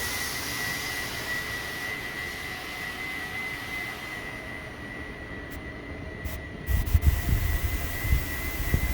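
Steady rushing noise with a thin high whine of a running aircraft turbine. Low rumbling thumps join in from about seven seconds in.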